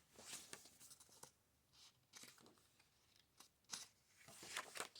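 Paper pages of a book being turned and handled: a few soft, brief rustles and flicks.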